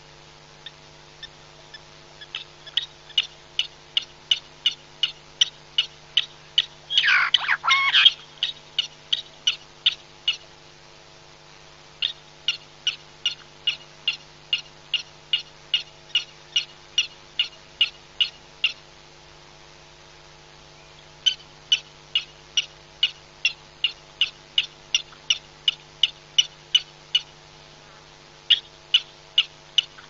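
A bird calling a long series of short, evenly spaced high notes, about two or three a second, in bouts of several seconds with short pauses between. About seven seconds in, a louder call with swooping notes lasts about a second. A faint steady low hum runs underneath.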